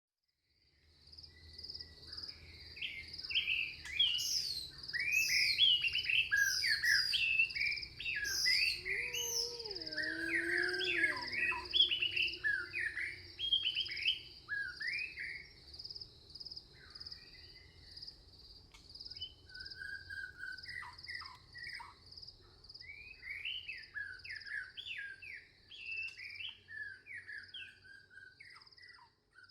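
Forest songbirds chirping and singing in many overlapping short phrases, densest in the first half and thinning later, over a steady, high pulsing trill and a faint low rumble.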